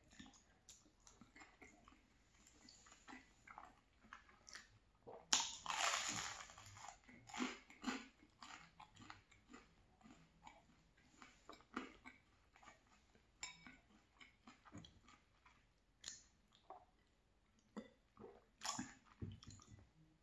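Close-miked chewing and mouth sounds of a person eating creamy tomato cavatappi pasta: soft, wet smacks and small clicks, quiet overall, with a louder noisy stretch of chewing about five to seven seconds in.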